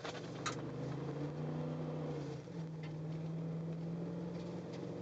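2010 Ford Raptor's V8 engine running steadily under way, its drone shifting in pitch about two and a half seconds in. A single short click about half a second in.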